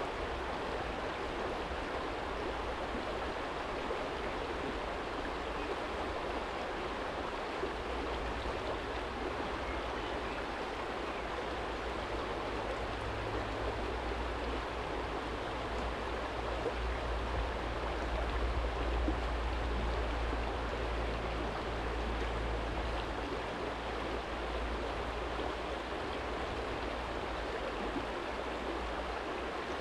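Small stream flowing over a stony bed: a steady rush and babble of water. Under it, a low rumble of distant traffic swells through the middle and fades again.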